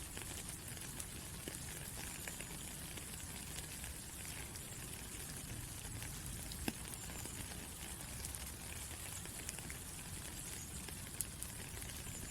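Steady rain falling, an even hiss with scattered sharper drop ticks, one clear tick about two-thirds of the way in.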